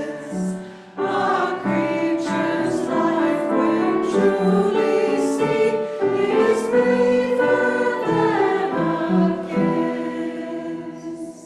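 Choir singing a sung piece with accompaniment, a short break about a second in, then the final phrase fading away near the end.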